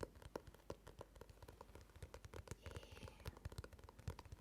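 ASMR trigger sounds made with the hands: soft, quick, irregular taps and clicks, several a second.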